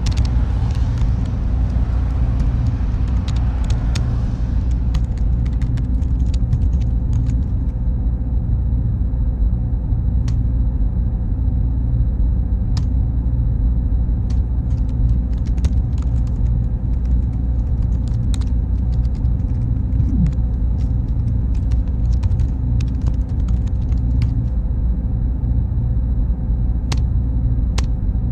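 Server room ambience: a steady low rumble of machine cooling fans with a faint high whine, and light clicks scattered throughout.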